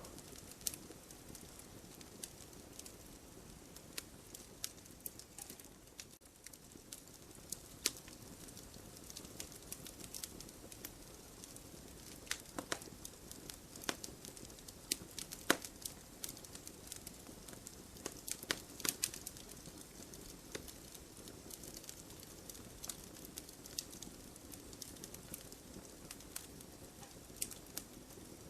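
Wood bonfire crackling: irregular sharp pops and snaps over a low, steady hiss of burning.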